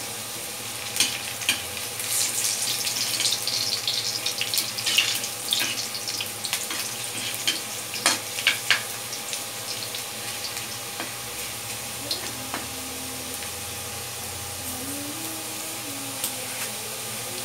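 Potato wedges sizzling as they fry in hot oil in a steel wok. A metal spoon clicks and scrapes against the pan as the pieces are turned over through the first half, then the steady sizzle carries on alone.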